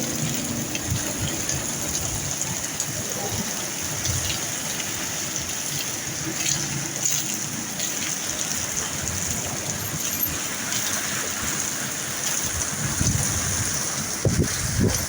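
Heavy rain falling steadily in a storm, a dense even hiss. A few short low thumps near the end.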